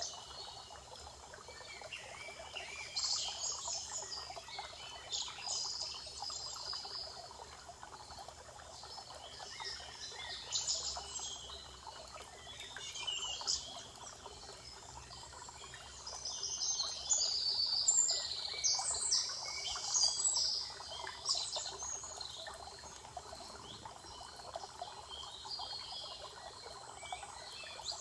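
Songbirds singing in short repeated phrases, busiest in a run from a little past the middle, over a steady rushing background.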